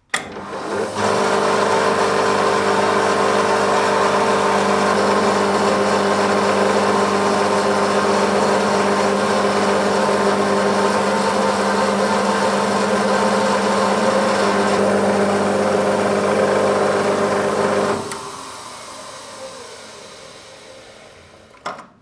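An electric machine tool starts up, runs steadily and loudly with a constant hum and whine, then is switched off and spins down over a few seconds; a single click comes near the end.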